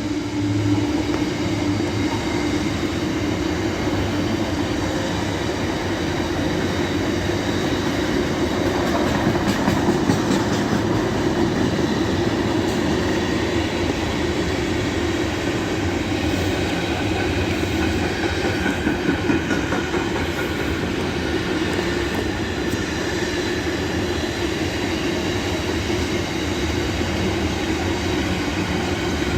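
Freight train hauled by a GBRF Class 66 diesel locomotive running past at steady speed: a long rake of wagons rolling by on the rails with a continuous rumble and clatter.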